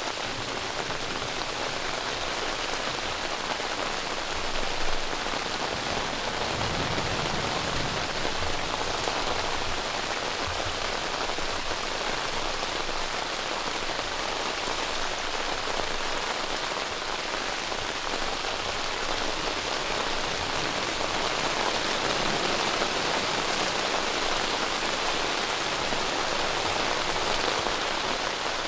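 Heavy rain falling steadily on a tent, hard enough to push the tent fabric down, with a brief bump about five seconds in.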